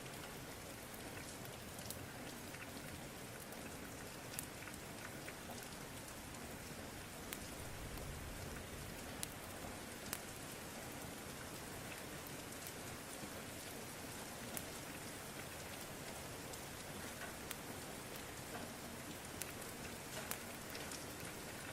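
Steady rain hiss, with sparse, irregular sharp pops and crackles from a wood fire.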